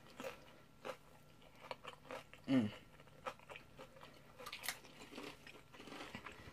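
A person biting and chewing a deep-fried egg roll, its crisp wrapper crunching in short, irregular crackles. About two and a half seconds in a short, low voice sound falls in pitch.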